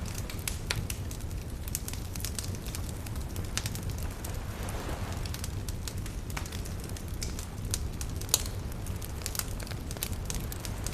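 Wood bonfire crackling, with frequent sharp pops and snaps over a steady low rumble; one pop about eight seconds in stands out as the loudest. Around the middle a soft wave washes in under the fire.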